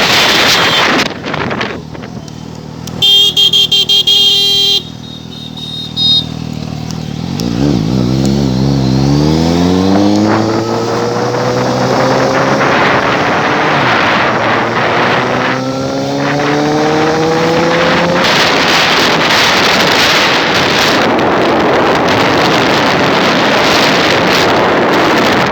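Suzuki GSX-S750 inline-four with a loud exhaust accelerating through several upshifts: the engine note climbs, drops at each gear change and climbs again. It then gives way to steady loud engine and wind noise at speed. A few seconds in there is a short pulsing high beep, like a horn.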